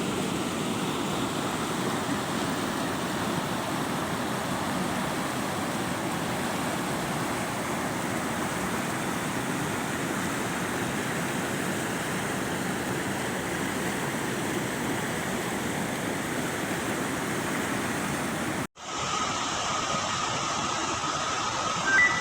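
Parvati River's fast-flowing water rushing steadily. It cuts out abruptly about nineteen seconds in, then a similar rushing resumes, with a brief high tone near the end.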